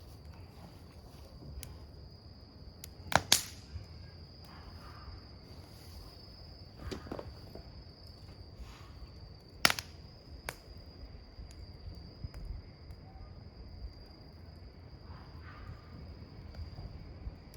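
Wood campfire burning, with occasional sharp crackles and pops over a low, steady sound of the fire. The loudest is a quick pair of pops about three seconds in, with another sharp pop near ten seconds in.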